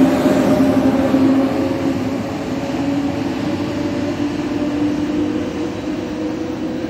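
Frecciarossa high-speed electric train's rear power car passing close and pulling away: a steady electric hum with two held tones over the rumble of wheels on rails, easing off gradually after about a second and a half.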